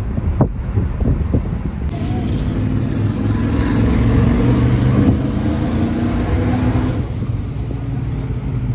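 Twin-turbo limousine's engine running as it drives. The drone swells, with a rushing noise building from about two seconds in, and eases back near the end.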